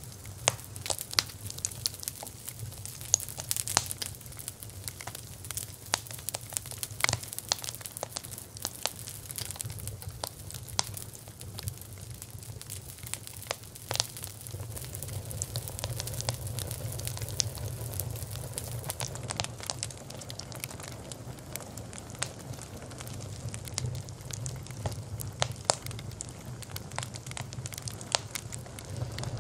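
Bonfire of burning wood crackling, with irregular sharp pops and snaps over a low steady rumble.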